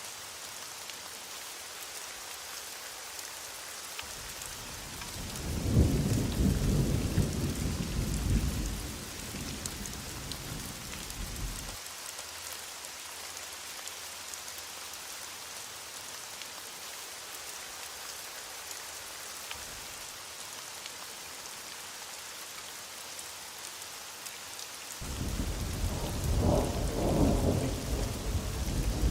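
Heavy rain falling with a steady hiss, and two rolls of thunder: one rumbles in about five seconds in and dies away over several seconds, and another breaks in near the end.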